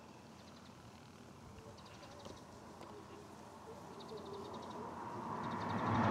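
Quiet roadside ambience with faint chirps, then a passing vehicle approaching, growing steadily louder over the last second or two.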